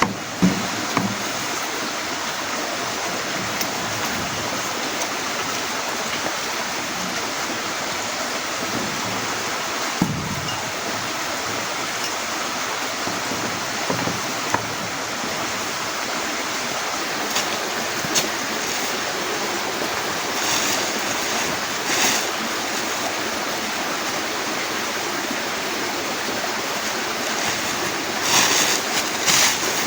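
Heavy rain falling steadily, a dense even hiss, broken by a few sharp knocks and brief rustles.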